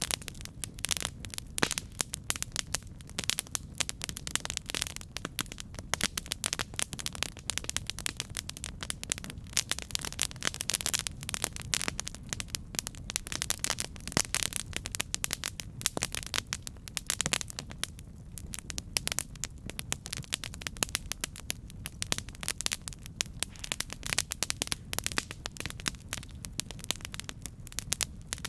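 Campfire burning, with dense, irregular crackling and popping over a steady low rumble.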